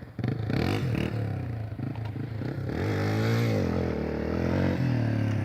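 Dirt bike engine revving up and down, with one long rise and fall in pitch about three seconds in.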